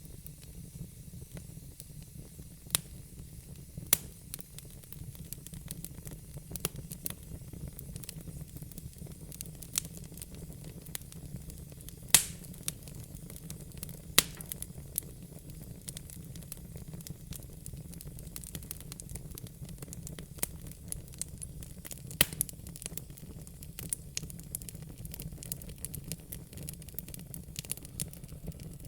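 Wood burning in a fire pit, crackling with irregular sharp pops and snaps, a few much louder than the rest, over a steady low rumble.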